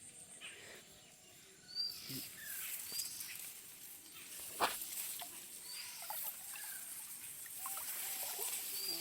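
Birds calling outdoors: a short high call repeated about once a second, with other chirps lower down, over small handling noises and one sharp click about halfway through.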